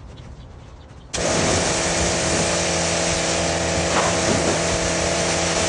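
A motor-driven cleaning machine switches on abruptly about a second in and runs steadily, a loud hiss over a steady hum.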